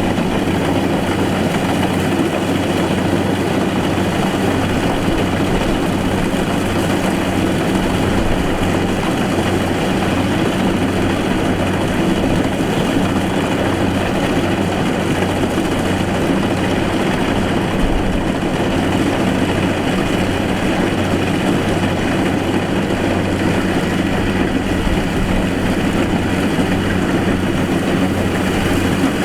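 Diesel engine of a Kubota DC70 rice combine harvester running steadily at constant speed, with no change in pitch or level.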